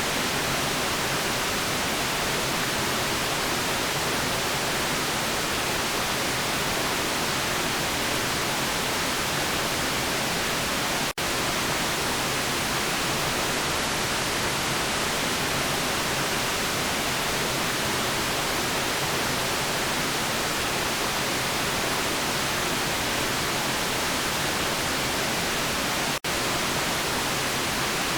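Steady, even hiss of synthetic white noise, with the lowest bass cut away. It drops out for a split second twice, about 11 and 26 seconds in.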